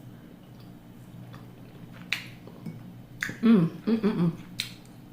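Mouth sounds of eating chicken: a few sharp lip-smacking clicks, with a short hummed vocal sound, broken into three parts, near the middle.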